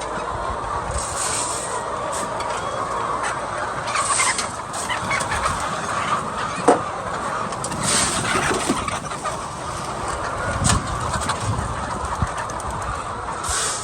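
A flock of laying hens clucking steadily, many birds at once, with a few brief sharper noises and one sharp click about halfway through.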